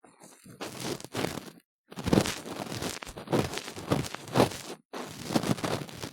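Ear-cleaning tools scraping and rubbing hard inside a silicone ear model, in runs of quick rustling, crackling strokes. The runs break off briefly about two seconds in and again near five seconds.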